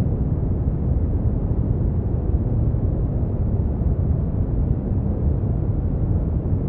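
Brown noise: a steady, deep rumbling hiss, strongest in the bass and with little treble, unchanging throughout.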